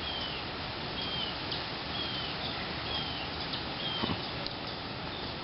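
Steady hiss of storm rain and wind. Over it, a short, high, falling chirp repeats about once a second.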